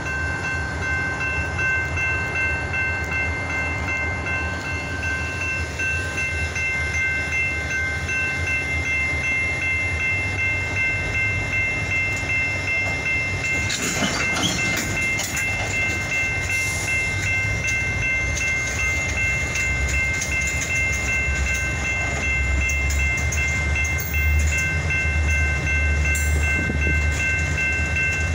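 Freight train cars rolling past close by: a steady rumble and clatter of wheels on the rails, with high-pitched ringing tones held throughout.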